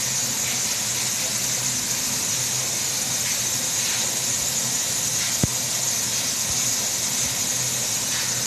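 Steady hiss with a faint low hum, the room tone of a quiet machinery room, broken by a single sharp click about five seconds in.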